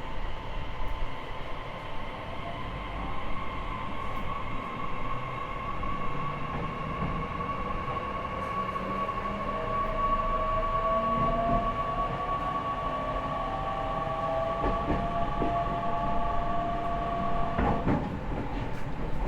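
E501 series electric train's Toshiba IGBT VVVF inverter and traction motors whining under power as the train gathers speed, several tones climbing slowly in pitch over low rail rumble. The whine stops abruptly near the end.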